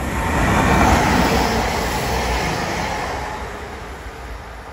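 Diesel multiple unit passenger train passing close by, a rumble of engine and wheels on rail that swells to its loudest about a second in and then fades away.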